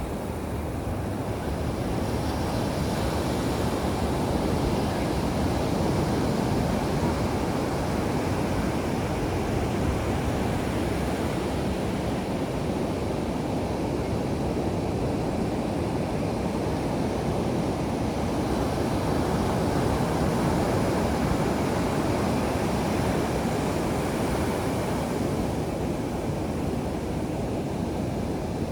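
Ocean surf washing onto a beach: a steady rushing noise that swells and eases slowly.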